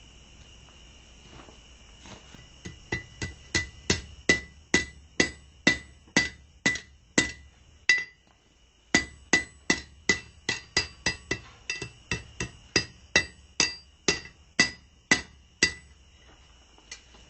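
Blacksmith's hammer striking hot steel on an anvil, with the anvil ringing on each blow, about two blows a second, as the heated bar of a fire poker is hammered around into a bend. The blows start a couple of seconds in, pause briefly about eight seconds in, then resume.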